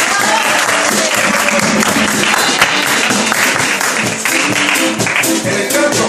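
Live band playing an instrumental passage: guitar over a quick, steady rattle of hand percussion, with no singing.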